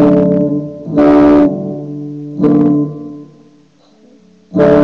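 Guitar strumming a D chord with the F-sharp bass on the low E string (D/F#), struck three times about a second apart and left to ring down. A fresh, loud strum comes near the end.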